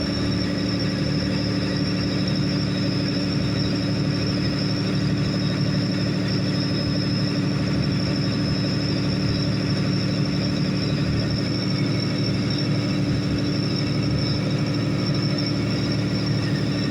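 Boat engine running steadily, a constant low drone with a thin high whine over it.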